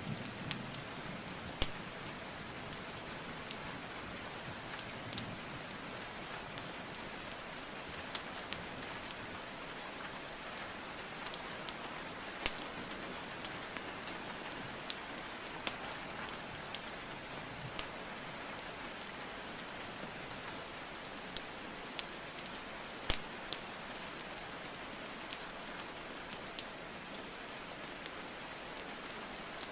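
Steady rainfall mixed with the irregular sharp crackles and pops of burning wood logs in a fireplace. The pops come every second or so, with a louder snap about a second and a half in and another near 23 seconds.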